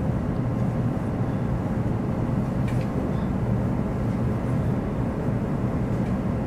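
Steady low rumble and hiss of a Hokuriku Shinkansen E7/W7 series train running along the line, heard inside the passenger cabin.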